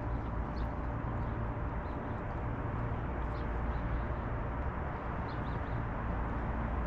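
Steady low background rumble with short, faint high bird chirps a few times.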